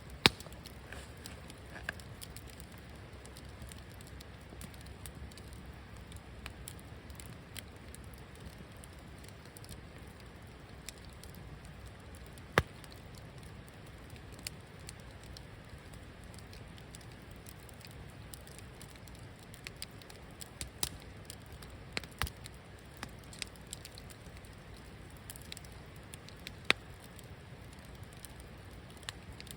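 Wood fire burning with a low steady rush, broken by sharp crackles and pops every few seconds, a few of them loud and several bunched together about two-thirds of the way through.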